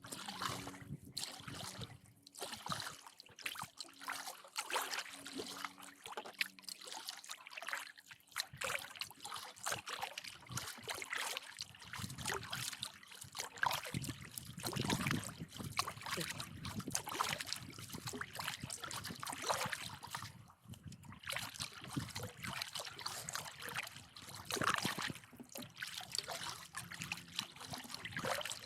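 Canoe paddling: water splashing and trickling off the paddle and along the hull in a steady run of small irregular splashes.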